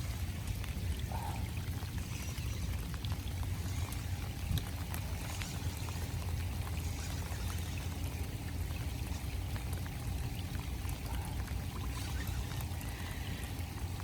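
Steady rain falling, with scattered drops ticking, over a constant low rumble.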